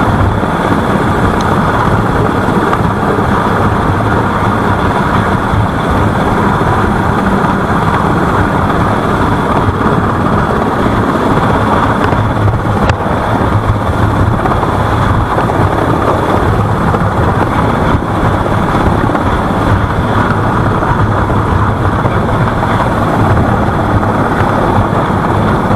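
A steady, loud engine drone with a low hum, buffeted by wind on the microphone.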